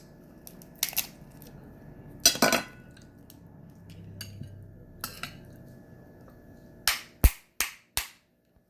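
Steamed crab shell being cracked and picked apart by hand: scattered sharp cracks and clicks, a longer crunch about two seconds in, and a quick run of four sharp cracks near the end.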